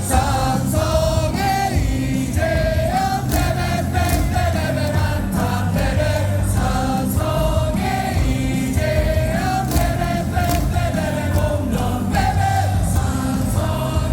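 Baseball stadium crowd singing a cheer song together over amplified music with a steady beat.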